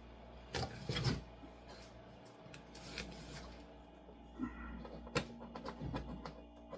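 Handling noises of food preparation: a few knocks and some rubbing and clatter over a faint steady hum.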